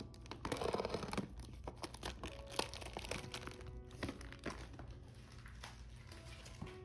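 Packaging crinkling and rustling as it is handled, heaviest from about half a second to a second in, with scattered small clicks and taps after. Soft background music plays underneath.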